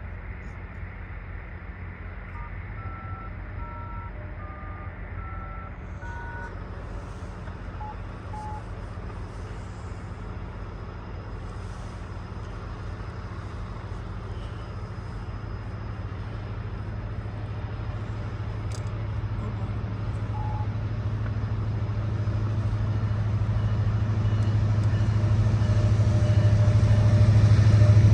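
Diesel freight locomotives (a CN SD70M-2 leading) approaching, their low engine drone growing steadily louder. A short run of electronic beeps at several different pitches sounds a few seconds in.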